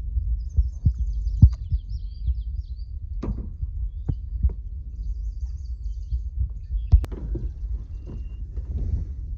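Wind buffeting the microphone: a steady low rumble broken by irregular thumps. Faint high bird chirps come through in the first couple of seconds and again about five seconds in.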